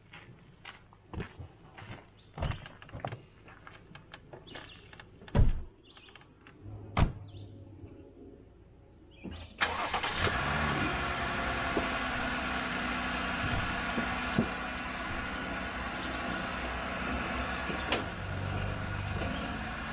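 A run of scattered knocks and clicks, then, about halfway through, the sound of a car engine running steadily, which starts suddenly.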